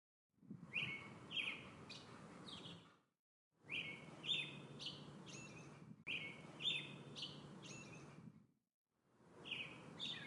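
Small songbirds chirping: quick high notes in short phrases over a low background hum. The sound comes in stretches of about two and a half seconds that fade in and out, with short silences between.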